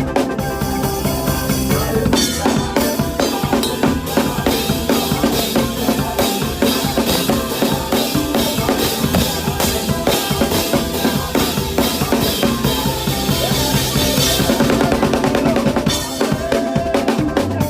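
Drum kit played to a makossa praise medley, kick and snare over the music, with cymbals ringing from about two seconds in until shortly before the end.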